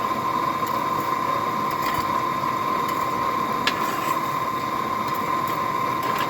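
Forge air blower running steadily, a constant rushing hum with a high whine, with one light click a little past halfway.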